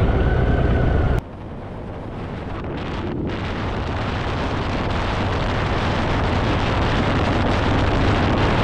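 Wind rushing over the microphone with a Harley-Davidson Fat Boy's V-twin engine running underneath at highway speed. The sound drops suddenly about a second in, then swells back up gradually.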